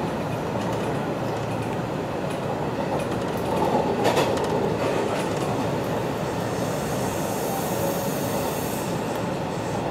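Hanshin 1000 series electric train running on the line, heard from the driver's cab: a steady rumble of wheels on rail, with a sharp click about four seconds in and a high hiss joining for a couple of seconds near the end.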